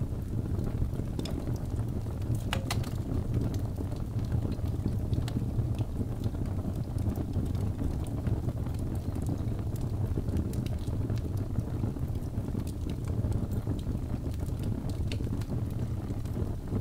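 Wood fire burning in a fireplace: a steady low rumble of the flames with scattered sharp crackles and pops, one louder pop a little under three seconds in.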